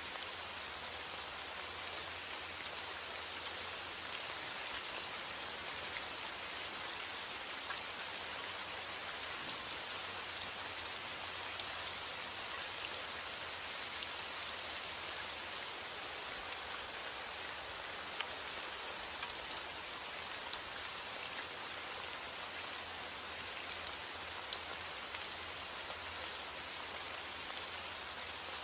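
Steady heavy rain, a dense even hiss with many fine drop patters on a hard surface.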